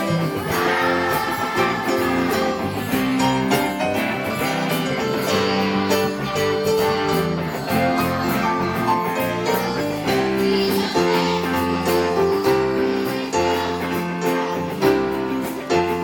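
Live church music: a children's choir singing a medley over strummed guitars, with a steady tambourine jingle keeping the beat.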